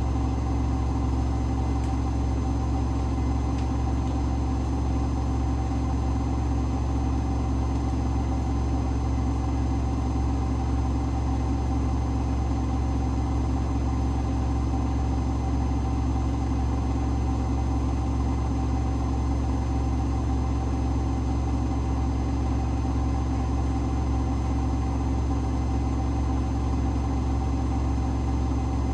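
Hoover H-WASH 500 front-loading washing machine running steadily: a constant low motor hum with a steady whine above it.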